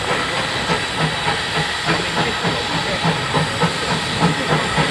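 Steam locomotive working, with a steady hiss of steam and regular exhaust beats about three times a second.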